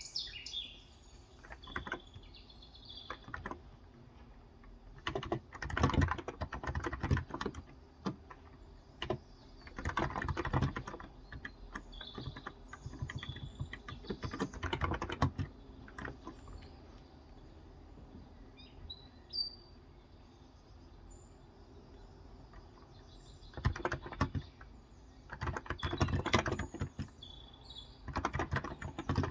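Typing on a Cox Endeavor electrostatic-capacitive (Topre-style) 35 g tenkeyless keyboard, in several bursts of quick, muted keystrokes with pauses between. Birds chirp now and then in the background.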